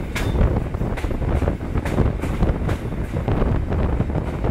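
EN57 electric multiple unit running at speed, heard from an open window: a steady low rumble of the wheels on the rails, with wind buffeting the microphone and repeated sharp clicks about every half second.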